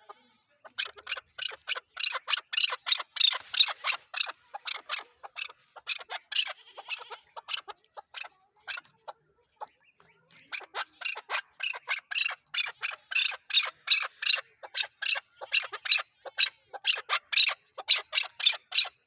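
Chukar partridge calling: a rapid run of short clucking notes, several a second, in two long bouts with a pause of about two seconds between them.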